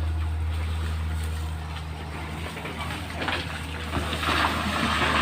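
A steady low engine hum, with a hiss coming in about four seconds in and growing louder.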